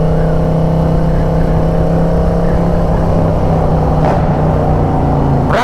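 Harley-Davidson V-twin motorcycle engine running at a steady speed, its pitch holding level and easing slightly in the last second or two.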